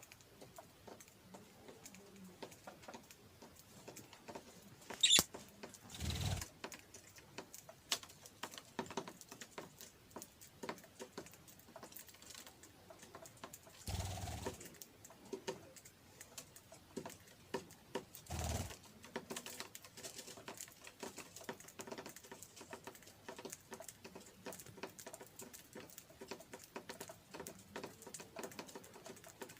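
Budgerigars pecking and cracking seed: a steady run of small, quick clicks and taps, with a few louder bumps.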